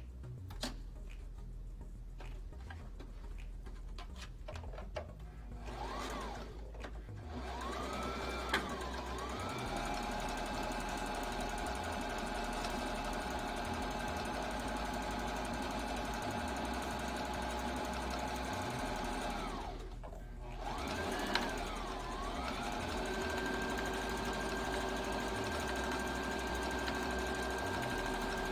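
Electric sewing machine stitching a long seam. It starts with a few slow clicks, then the motor speeds up and runs steadily, stops briefly about two-thirds of the way through, and speeds up again.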